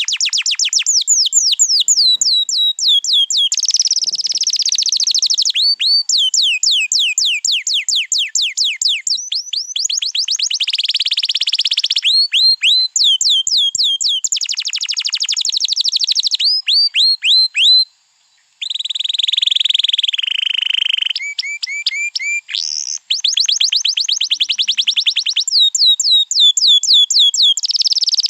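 Canary singing a long, loud song of fast trilled tours: rapid runs of repeated downward-sweeping whistled notes and rolls that switch to a new pattern every second or two, with one brief pause about two-thirds of the way through.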